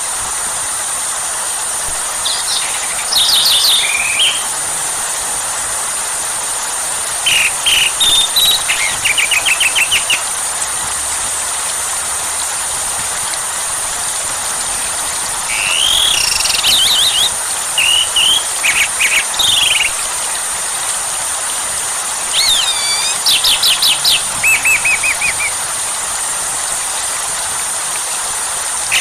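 Steady rain hiss with a songbird singing over it in four separate bursts of quick chirps and rapid trills.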